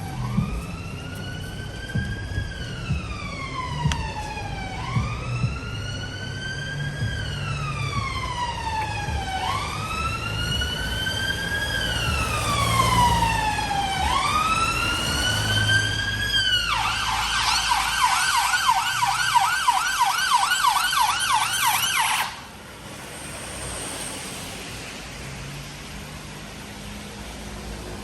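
Emergency vehicle siren: a slow wail rising and falling about every four and a half seconds, then switching to a rapid yelp for about five seconds before cutting off suddenly, over a low traffic rumble.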